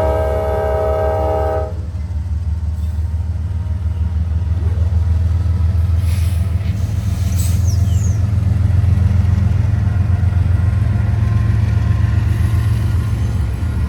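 A diesel locomotive's multi-note air horn sounding, cutting off just under two seconds in, followed by the steady low rumble of the train going by.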